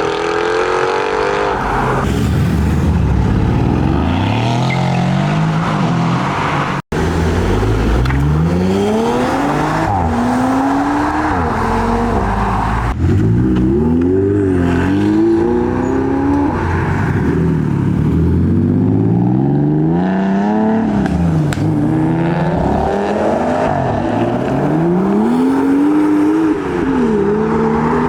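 High-performance car engines accelerating hard away one after another, each revving up in pitch and falling back at the gear changes, in several short runs joined by cuts.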